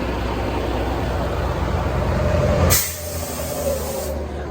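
Diesel semi-truck idling, then about three seconds in a loud hiss of released compressed air lasting over a second. This is the recurring puff ('пшикает') that the truck makes both parked and driving, which the owner cannot explain.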